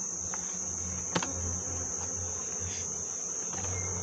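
Honeybees buzzing around an opened hive as a low hum, over a steady high-pitched insect drone. A single sharp tap comes about a second in.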